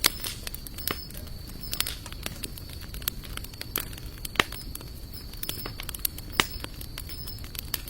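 Wood fire of sawtooth oak and mixed hardwood logs burning, with irregular sharp crackles and pops over a low steady rush of flame. The loudest pops come about four and a half and six and a half seconds in. A faint steady high-pitched tone runs behind it.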